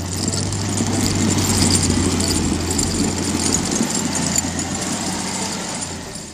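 An engine running steadily with a low hum and a noisy hiss over it, easing off near the end.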